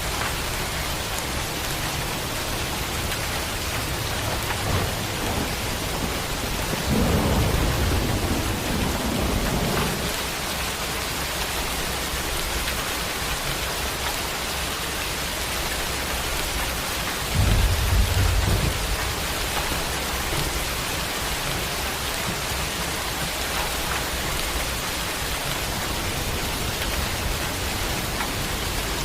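Steady heavy rain with rolls of thunder: a rumble about seven seconds in that lasts a few seconds, and a shorter, sharper clap of thunder around eighteen seconds in.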